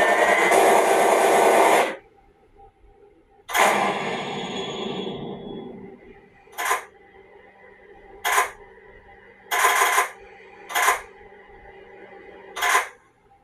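Film-trailer sound effects: a loud, dense sound that cuts off about two seconds in, then a heavy hit with a long fading tail, followed by five short, sharp hits a second or two apart.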